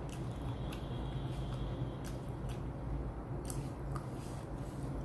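A person chewing food close to the microphone: soft mouth sounds with irregular crisp clicks, about two a second.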